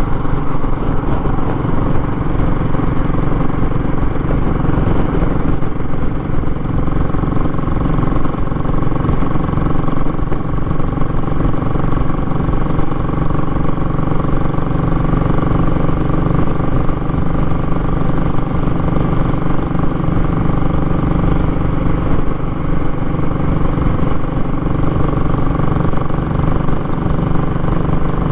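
Royal Enfield Classic 500's single-cylinder engine running steadily through a short muffler, giving a raw exhaust note. The pitch holds nearly constant, shifting slightly about seven seconds in.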